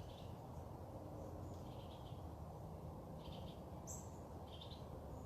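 Faint bird calls, short chirps repeating about every second and a half, with one higher call about four seconds in, over a steady low background rumble.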